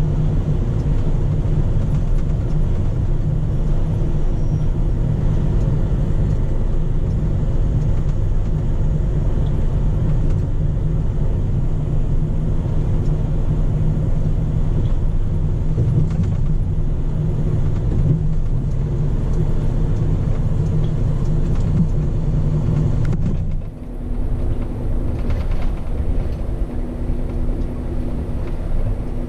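Scania P400 truck's diesel engine running steadily with a deep, even hum. Near the end the sound drops abruptly and changes to a quieter steady hum with a single higher tone.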